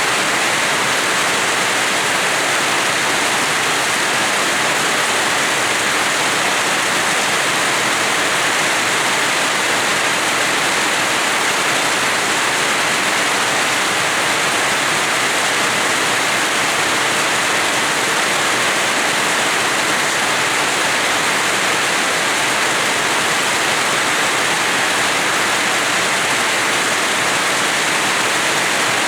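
Heavy rain falling steadily, a dense, even hiss with no single drops, gusts or thunder standing out.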